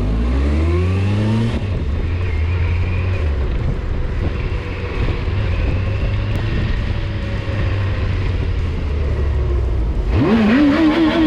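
Motorcycle engine running on the road over a steady low rumble, its pitch rising and falling as it revs, most strongly near the end.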